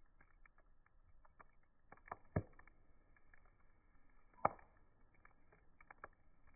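Campfire wood crackling: quiet, scattered small pops with two louder pops about two and a half and four and a half seconds in. It sounds dull, with no high end, as in slow-motion playback.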